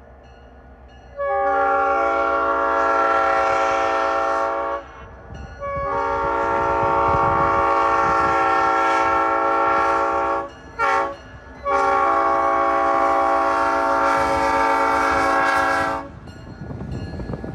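Diesel locomotive air horn, a multi-note chime, sounding the grade-crossing signal: two long blasts, one short, one long. Beneath it the train rumbles along.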